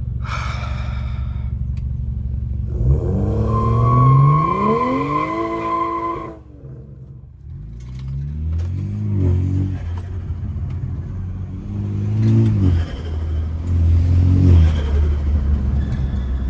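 BMW F30 328i's turbocharged 2.0-litre four-cylinder running steadily, then revving hard under acceleration with a steady whine over the climbing engine note. About six seconds in the revs cut off sharply on lift-off, and the engine then pulls up and lets off several more times in shorter bursts.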